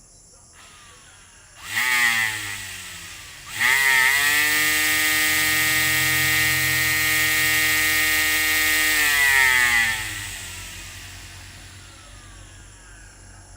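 Cordless battery-powered string trimmer's electric motor test-run: a brief pull of the trigger that spins it up and lets it coast, then a second spin-up to a steady high whine held for about six seconds before it winds down with a falling pitch.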